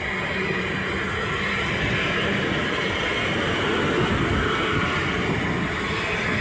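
Train running on the line: a steady rush of wheel and traction noise that swells slightly a couple of seconds in.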